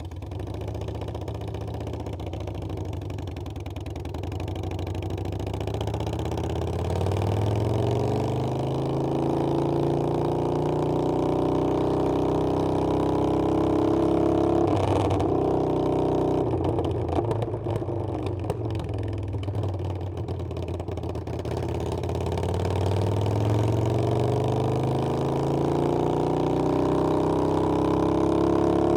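Harley-Davidson Iron 883's air-cooled V-twin engine running under way, its pitch climbing steadily as the bike accelerates. About halfway through it turns rough and uneven for several seconds, then climbs again near the end.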